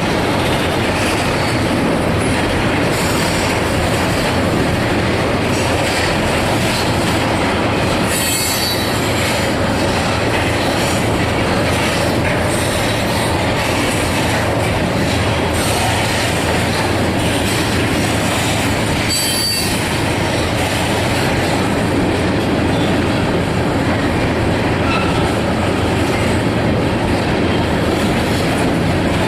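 Freight train cars rolling past: a steady rumble of steel wheels on rail, with two brief high-pitched wheel squeals, about eight and nineteen seconds in.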